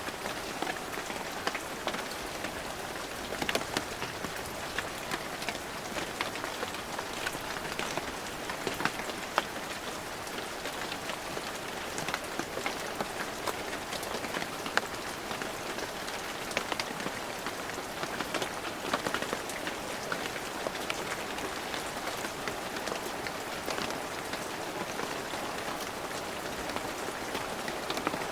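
Heavy rain falling steadily, a dense even hiss with many individual drops ticking sharply on surfaces close by.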